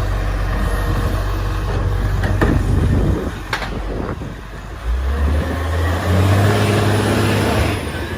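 Garbage truck's diesel engine running, with a couple of sharp knocks about two and a half and three and a half seconds in, and the engine note rising and getting louder from about five seconds in.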